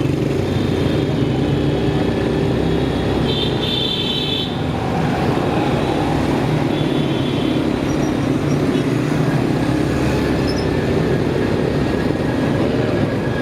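Motorcycle engine running steadily under way along a city road, with surrounding traffic noise.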